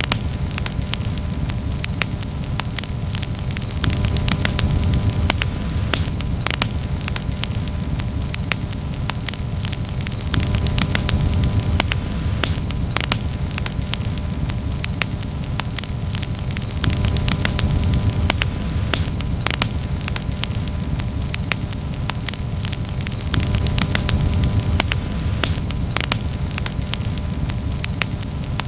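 Campfire crackling, with frequent irregular pops and snaps over a steady low rumble.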